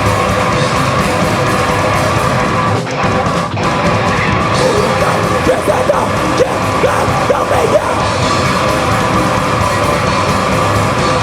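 Live heavy rock band playing loudly, with distorted guitars, drums and shouted vocals.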